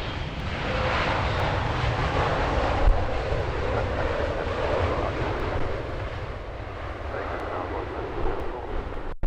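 Jet airliner engines passing, a steady rushing noise that swells about a second in and eases off somewhat toward the end.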